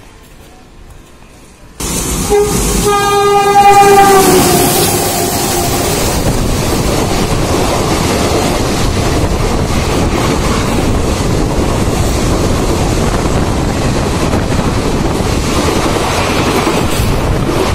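A passenger train's horn sounds suddenly about two seconds in, one long note of about three seconds that sags in pitch at its end as the train passes. It is followed by the steady, loud running noise of the coaches going past along the platform.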